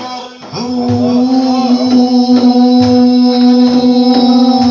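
Instrumental backing music: an electronic keyboard holds one steady organ-like note over a regular drum beat.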